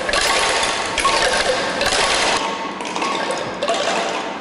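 Bamboo angklung rattling, its tubes clattering in a fast repeated shake as it rocks on a curved base that keeps it sounding without being held; the rattle is dense at first and thins out after a couple of seconds.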